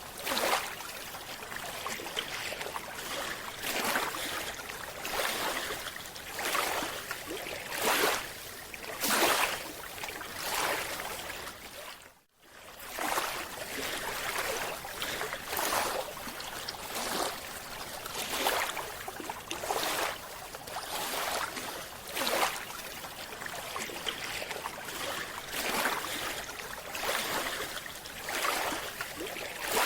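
Water rushing and sloshing, recorded underwater, in regular surges about every second or so. It cuts out briefly near the middle.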